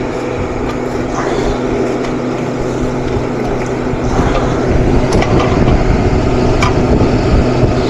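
A machine running with a steady hum, with a few light clicks and taps over it.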